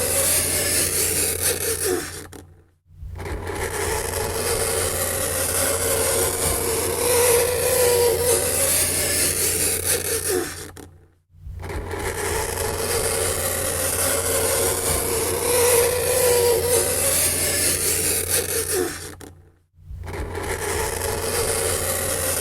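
Fingernails scraping across a chalkboard: a continuous grating scrape with a wavering squeal running through it. It breaks off briefly three times, about every eight and a half seconds.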